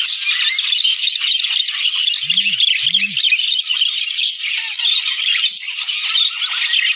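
A flock of budgerigars chattering and warbling continuously, a dense mix of rapid chirps.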